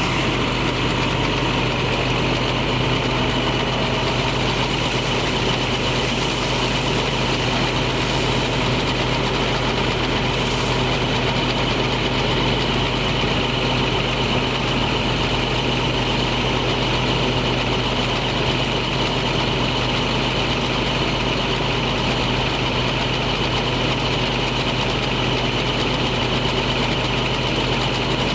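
International MaxxForce DT diesel engine of a water truck idling steadily, with an unchanging high whine on top.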